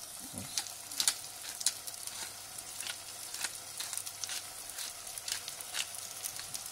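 Vegetables frying in a saucepan with tomato pulp: a steady sizzle broken by sharp crackles about twice a second.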